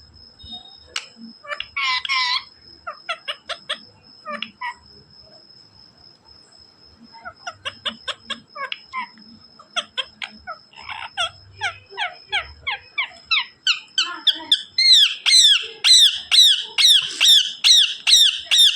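Pet parrot calling in many short chirps and whistles, then, from about three-quarters of the way through, a run of loud repeated squawks at about two a second.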